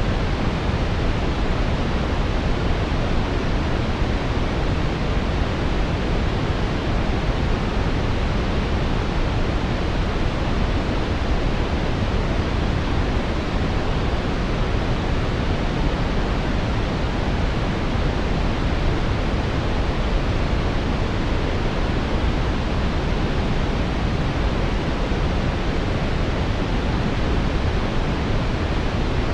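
Steady synthetic brown noise: an even, unchanging hiss weighted toward the low end, like a deep rush.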